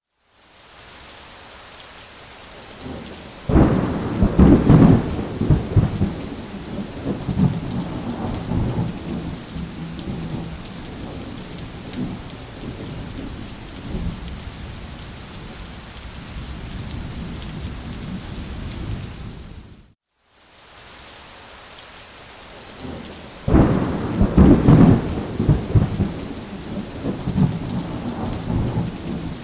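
Steady rain with rolling thunder: a loud low rumble about three and a half seconds in that dies away over several seconds, then the same rumble again about twenty-three seconds in. A brief silence just before each rumble sequence shows the same recording repeating.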